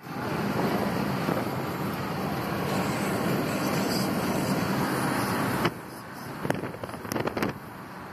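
Road traffic from a stream of passing motorcycles: a loud, steady rush of engine and road noise that drops off suddenly about five and a half seconds in, followed by a few short sharp knocks.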